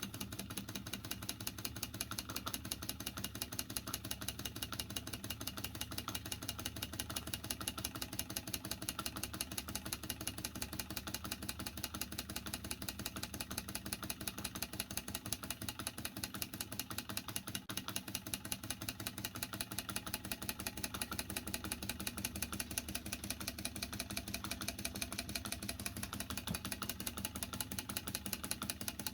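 Vintage Bing Werke live steam toy traction engine running under its own steam, ticking over with a rapid, even mechanical clatter.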